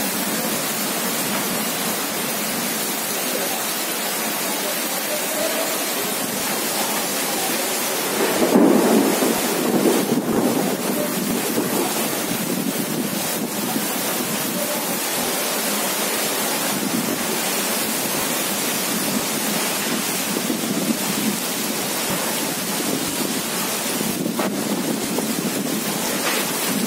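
Heavy rain pouring down with a steady, dense hiss. About eight seconds in a louder low swell rises over it and fades within a few seconds.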